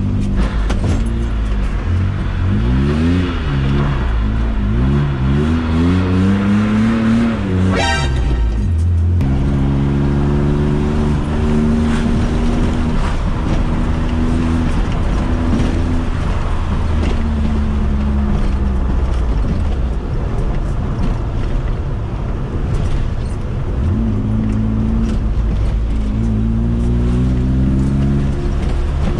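BMW E36's 2.8-litre M52 stroker straight-six, heard from inside the cabin, revving up and down while driving. The revs drop briefly about eight seconds in, the engine pulls more steadily for a while, then it revs up again near the end.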